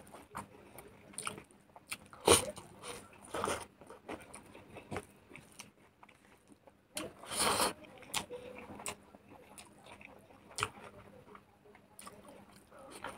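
Close-miked eating sounds: chewing and biting of smoked pork and rice, a string of short wet clicks with a few louder bites, the loudest a longer burst around the middle.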